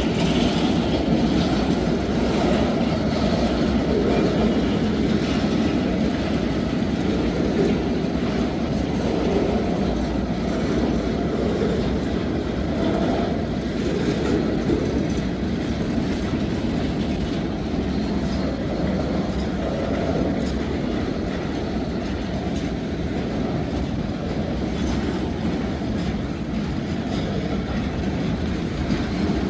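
Freight cars of a Norfolk Southern manifest train rolling past: a steady rolling noise of steel wheels on rail, with faint clicks over the rail joints.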